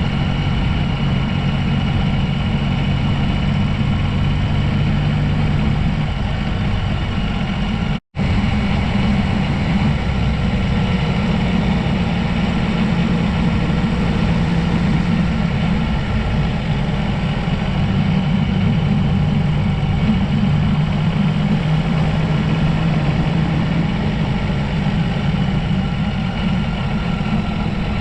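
A vehicle engine running steadily at an even pitch, with a brief break in the sound about eight seconds in.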